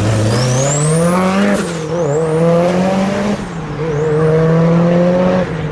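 Mitsubishi Lancer Evolution's turbocharged inline-four accelerating hard through the gears. The engine note climbs three times and drops sharply at each upshift, about one and a half, three and a half and five and a half seconds in. A high whistle rises with each pull.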